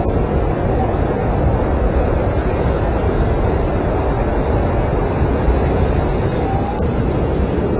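Snowstorm wind blowing steadily, a dense unbroken rushing noise.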